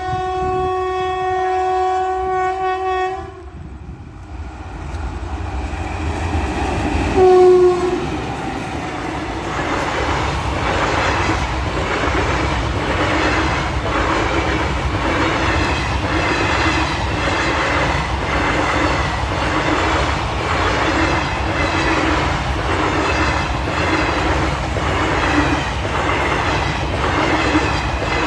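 Express train's horn sounds one long blast, then a short one about seven seconds in. The train's rumble builds and settles into a steady run, its wheels clicking over the rail joints about once a second.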